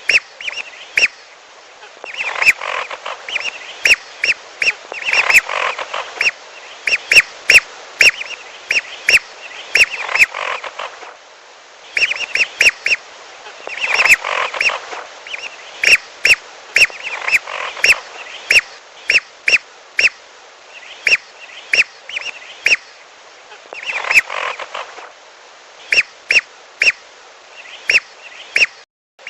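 Whistling ducks (belibis) calling, played as a hunting lure recording: short, sharp calls repeated many times in quick runs, with a brief pause about eleven seconds in.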